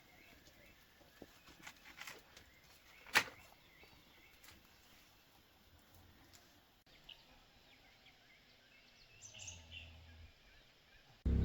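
Quiet background with faint bird calls, scattered small ticks and one sharp click about three seconds in.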